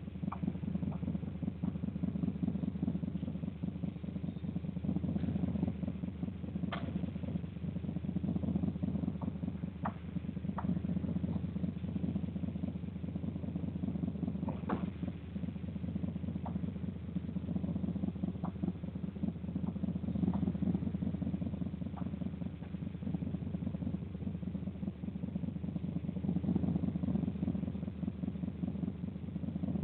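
A steady low rumble of an engine idling, even throughout, with a few short faint clicks scattered through it.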